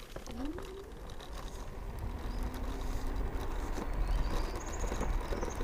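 Electric scooter on the move: its motor whine rises in pitch in the first second as it picks up speed, over low wind and road rumble that grows louder throughout. A few faint high chirps near the end.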